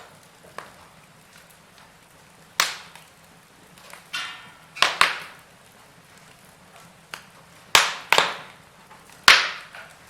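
Wood fire crackling in a fireplace: a faint steady hiss broken by about six sharp, loud pops, some in quick pairs, with a short buzzy hiss about four seconds in.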